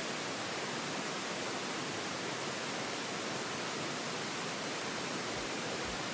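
Steady rushing of a mountain stream, with a couple of low thumps near the end.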